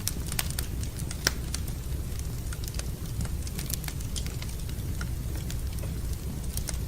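Wood fire burning in a fireplace, crackling with irregular sharp pops, one louder pop about a second in, over a steady low rumble.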